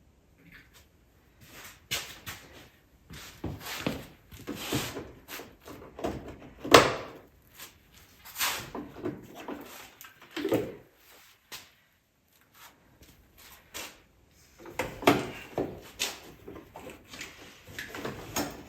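Irregular knocks, clicks and rattles of parts and tools being handled while an ATV is worked on, loudest about seven seconds in, with a short lull a few seconds later before the clatter picks up again.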